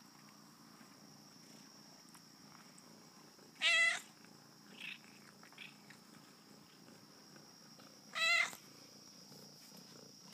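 A kitten meowing: two loud, short cries about four and a half seconds apart, with a faint shorter call in between.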